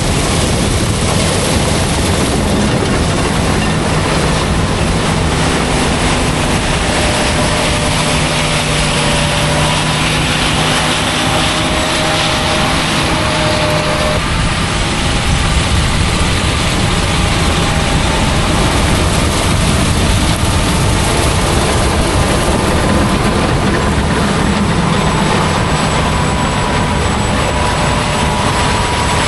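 Large harvest machinery running steadily in the field: a dense, unbroken mechanical drone with a few faint whining tones that drift slightly in pitch.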